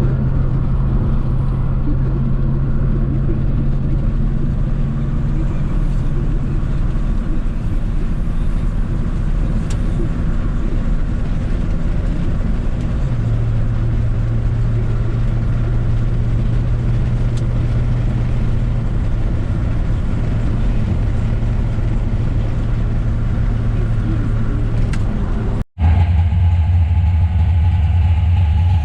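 Car engine idling steadily, its pitch settling a little lower about halfway through. Near the end it cuts off abruptly and a deeper-sounding idling engine takes over.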